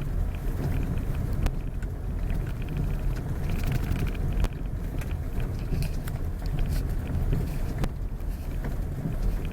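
Steady low rumble of a vehicle on the move, with wind buffeting the microphone and a few sharp clicks.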